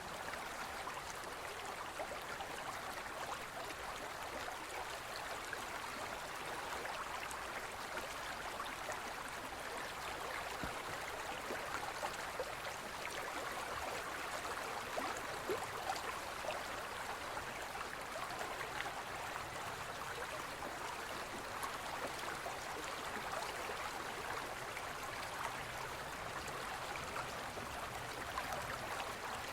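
Gentle forest river flowing steadily over stones, a continuous babble of rushing and gurgling water.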